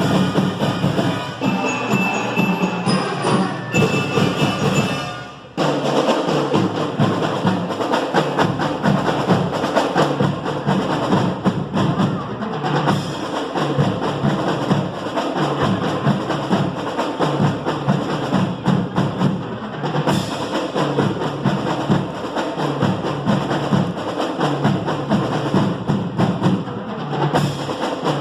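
Marching band drumline playing a steady drum cadence with sharp stick and rim clicks. Before it, a passage with pitched instruments fades out about five seconds in, and the drums come back in abruptly.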